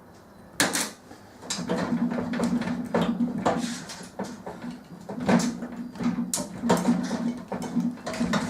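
Knocks, clicks and clunks of parts being handled while a microwave oven is taken apart for scrap, with a low steady hum underneath from about two seconds in.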